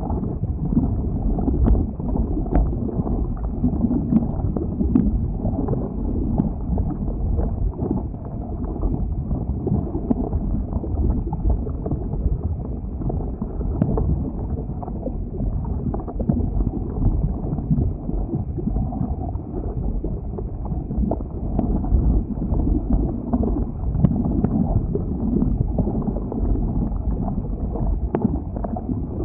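Lava flowing: a steady low rumble and rush, with a few faint sharp cracks scattered through.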